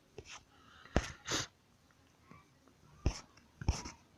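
A few short breathy puffs close to the microphone, with a couple of soft clicks between them.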